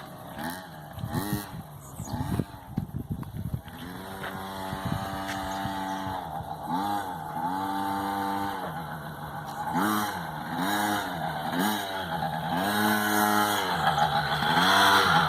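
Motocross bike engine being revved repeatedly, its pitch climbing and falling every second or two as the throttle is opened and closed.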